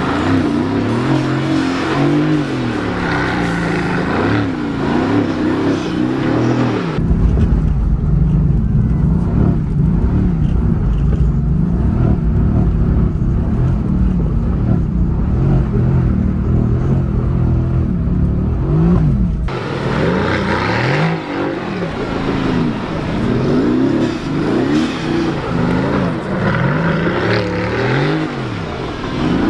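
Mercedes-AMG car engine revving up and down again and again while doing donuts on dirt. From about seven seconds in until about nineteen seconds a heavy low rumble covers the engine.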